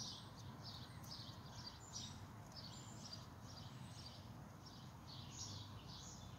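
Birds chirping in a steady series of short, high calls, a few a second, faint against a low background hum.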